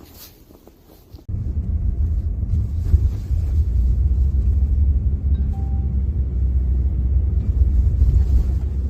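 Loud, steady low rumble of a running vehicle, starting suddenly about a second in.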